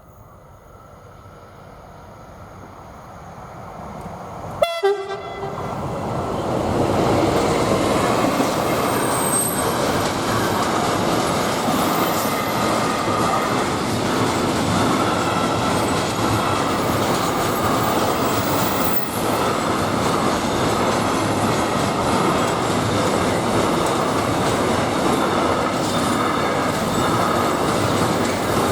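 Freight train approaching and passing over a level crossing: the noise rises as it nears, a short horn blast sounds about five seconds in, then the loud steady rolling noise of the wagons going by, with faint high wheel squeals.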